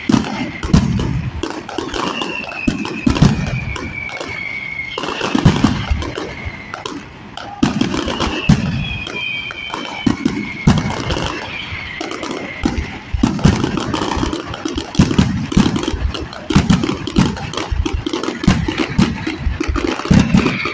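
Aerial fireworks display: a dense run of bangs and booms from bursting shells with crackling between them, and several high whistles that slide down in pitch.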